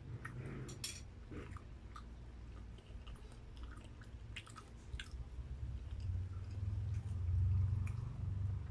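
Close-miked chewing of grilled barbecue meat and rice, with small wet mouth clicks scattered throughout. A low rumble swells over the last few seconds and is the loudest sound at the end.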